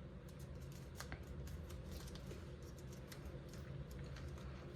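Faint crinkling and small clicks of a sheet of origami paper being handled and folded, over a low steady hum.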